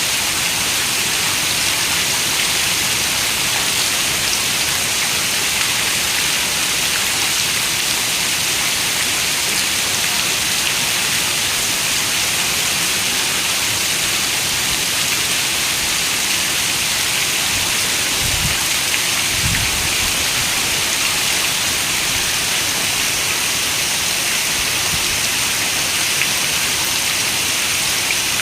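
Steady rain, an even hiss of many drops. Two brief low rumbles sound about two-thirds of the way through.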